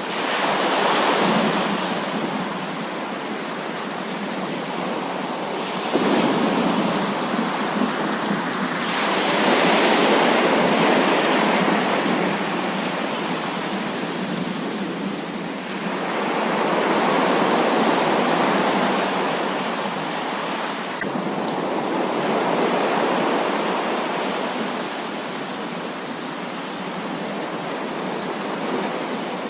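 Heavy rain falling steadily, with rolls of thunder swelling up and dying away several times, one coming in suddenly about six seconds in.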